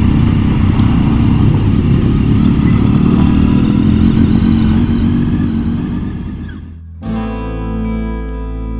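Motorcycle engine running with wind noise while riding, fading away about six seconds in. Acoustic guitar music then starts abruptly near the end.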